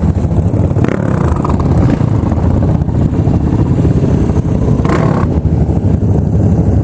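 Single-cylinder motorcycle engine running under way, with two short bursts of noise about a second in and about five seconds in.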